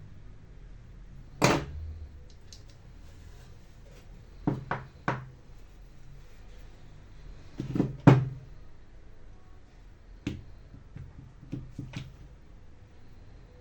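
Scattered knocks and clicks of tools and parts being handled and set down on a workbench, in small clusters a few seconds apart, the loudest pair about eight seconds in.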